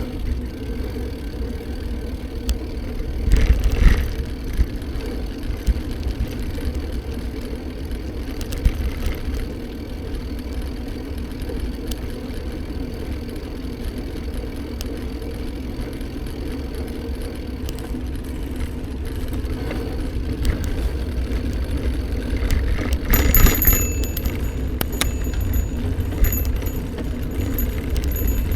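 Steady riding noise from a moving bike: a continuous low rumble and hum with occasional rattles and knocks, louder about three and a half seconds in and again near the end.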